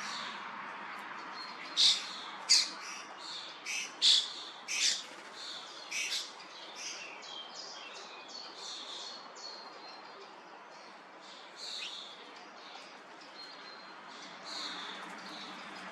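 Common starlings calling: a run of sharp chirps and squawks, the loudest in the first five seconds, then softer, busier chatter.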